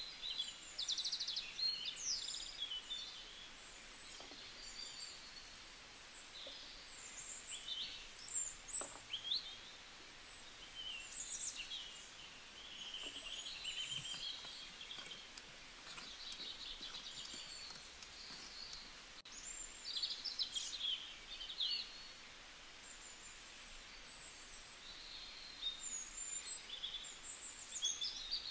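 Small birds chirping and calling: many short, quick rising and falling chirps that come in clusters, over a faint steady background hiss.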